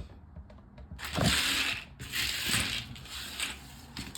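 Small plastic LEGO pieces rattling and clicking as they are handled and rummaged through, in three bursts, the first about a second in and the loudest.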